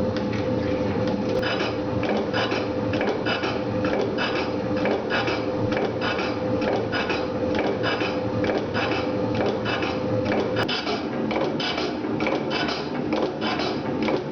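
Metal shaper running: a steady hum from the machine with a regular clatter of the ram's strokes, cutting a part in a sideways setup.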